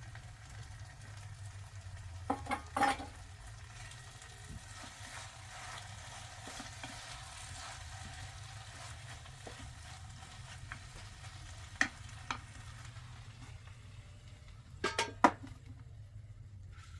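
Food frying in a pan with a steady sizzle, while a utensil clinks against the pan three times.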